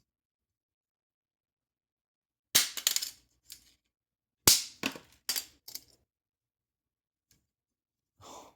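Two hard, sharp knocks on the metal-bodied Apple TV Siri Remote about two seconds apart, each followed by a few quick clattering clicks as it rattles and settles. A brief softer scrape comes near the end.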